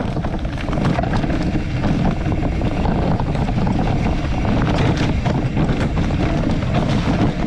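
Wind buffeting the microphone over a steady low rumble from a bicycle being ridden over rough ground, with scattered small rattles.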